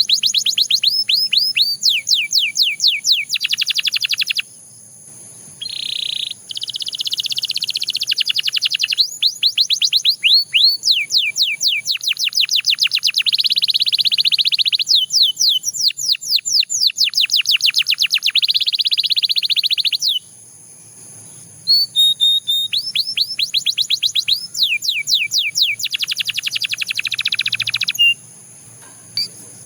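Canary singing in tours: runs of fast, falling whistled notes alternating with rapid rolling trills, broken by short pauses about four seconds in, around twenty seconds in and near the end.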